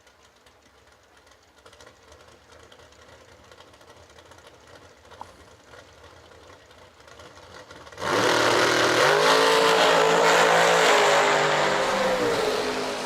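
Drag race cars making a pass down the strip: a faint distant rumble, then about eight seconds in a sudden loud blast of engine noise that holds for a few seconds and drops in pitch as it fades near the end.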